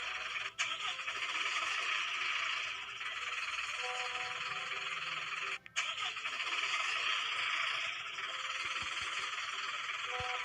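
Steady whirring of a battery-powered toy vehicle's small motor and gears, breaking off briefly twice.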